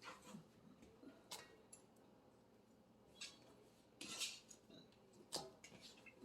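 Faint kitchen knocks and scrapes of a knife cutting a canary melon on a cutting board: scattered light clicks, a short scrape about four seconds in and a sharp knock just after five seconds.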